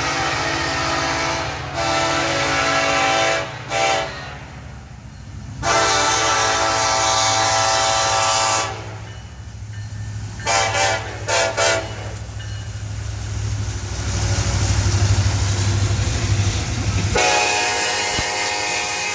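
Diesel locomotive air horn sounding a series of blasts: two long, a short, a long, then four quick short toots, and another long blast near the end. A low diesel engine rumble runs under it and swells in the last third as the locomotive draws close.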